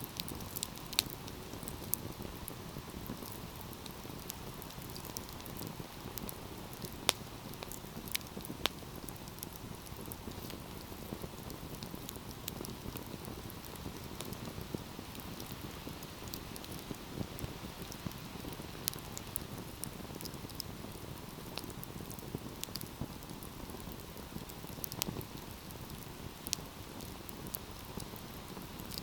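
Wood fire crackling: frequent sharp pops and snaps, a few of them louder, over a steady hiss of burning.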